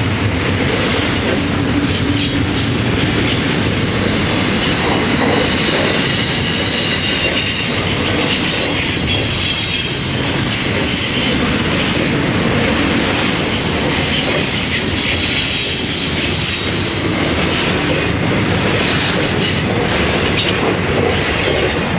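Double-stack intermodal freight cars of a long freight train rolling past: a steady rumble of wheels on rail with clacking over the joints. A high wheel squeal rises at times, about a third of the way in and again past the middle.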